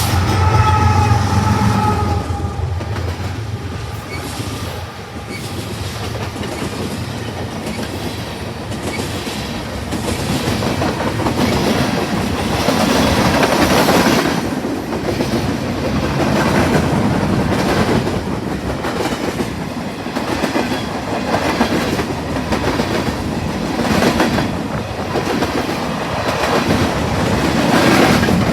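Freight cars of a BNSF manifest train rolling past with a steady rumble and repeated clickety-clack of wheels over rail joints. The tail of a train horn fades out in the first couple of seconds.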